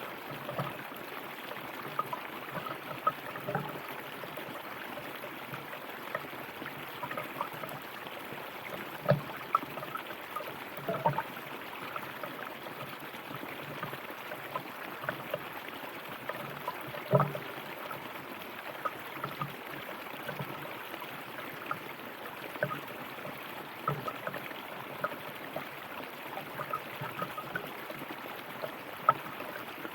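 Flowing river water running steadily, with many small splashes and gurgles breaking through at uneven intervals.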